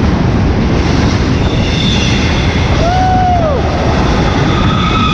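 Florida East Coast freight train rolling past close by: a loud, steady rumble of wheels on rail. Over it, a short rising-and-falling squeal sounds about three seconds in, and steady high wheel squeals build near the end as the cars take a curve.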